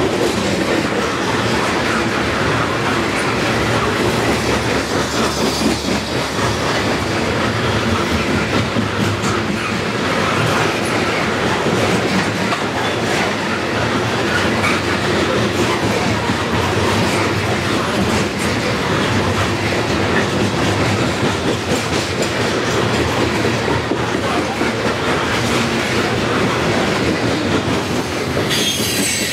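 Loaded CSX coal train's freight cars rolling past close by in a steady, loud stream of rail noise, their wheels clicking over the rail joints.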